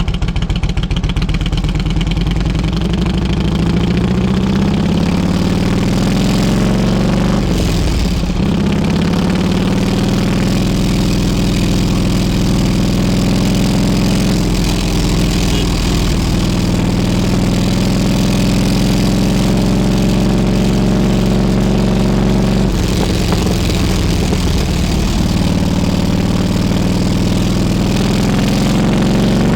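Harley-Davidson Road King Classic's V-twin engine running while riding, its pitch climbing steadily and then dropping sharply with a short break, around eight seconds in and again around twenty-three seconds, like gear changes.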